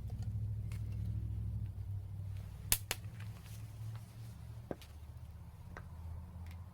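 Wood fire crackling: scattered sharp pops and snaps over a low steady rumble, with two loud pops in quick succession a little under halfway through.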